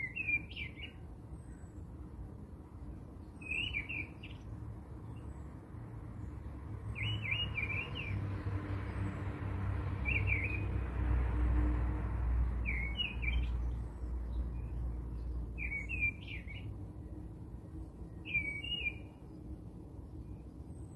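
A small songbird chirping: seven short, quick phrases repeated about every three seconds. Under it, a low rumble and a soft rushing noise swell and fade in the middle.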